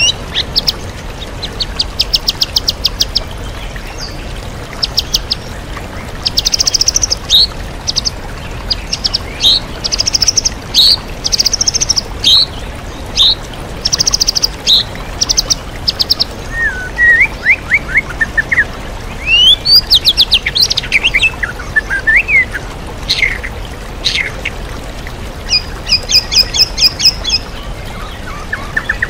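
White-rumped shama (murai batu) singing a varied song full of mimicked phrases: bursts of rapid trilled notes and short whistles, separated by brief pauses. The steady rush of a waterfall runs beneath.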